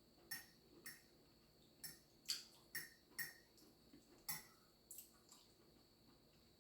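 Close-miked eating sounds: a string of about eight short, sharp wet clicks and smacks, irregularly spaced.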